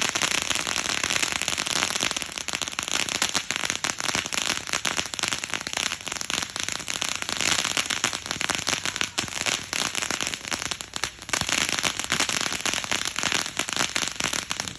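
Fireworks crackling: a dense, unbroken run of rapid small pops, like a string of firecrackers or a crackling fountain.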